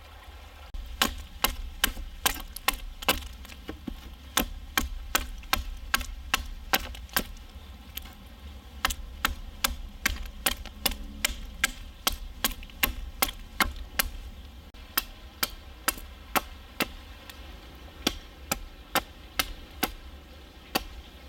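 Repeated chopping strokes of a blade into wood, about two sharp strikes a second in uneven runs with short pauses, as young birch stems are cut.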